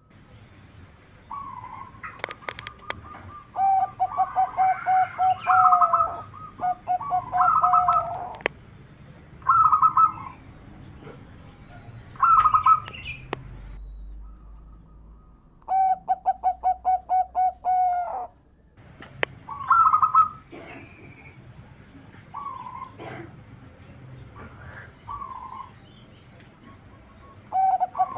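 Zebra doves (perkutut) cooing: phrases of rapid, evenly beating staccato notes, each run lasting one to three seconds, with shorter phrases between them. Two calls overlap at times, as if one dove answers another.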